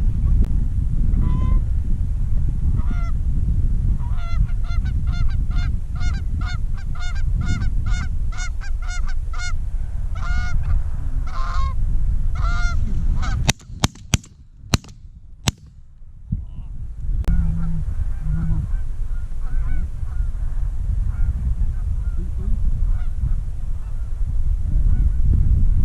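Geese honking over and over, several calls a second, over heavy wind rumble on the microphone. A little past halfway, a quick volley of about five shotgun shots, then one more shot, after which fainter honking carries on.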